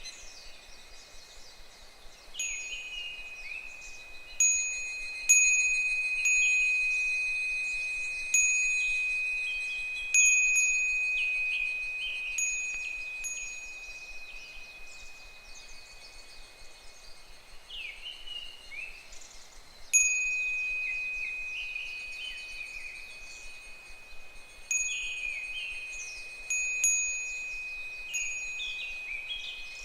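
A single Japanese wind bell (fūrin) swinging in the breeze, struck at irregular intervals, sometimes several times in quick succession, each strike ringing one clear high note that slowly dies away. Fainter evening cicadas (higurashi) call underneath.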